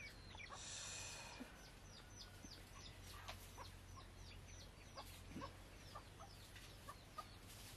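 Faint chirping of birds: short, falling high notes repeated a few times a second. A brief soft hiss about a second in.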